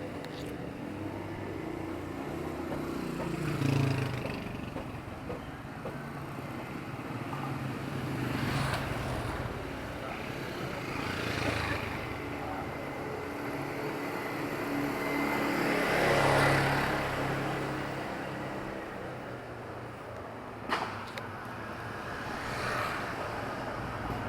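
Street traffic in a small town: vehicles passing one after another, the loudest going by about two-thirds of the way through, over a steady background of engines and distant voices. A sharp click or knock sounds near the end.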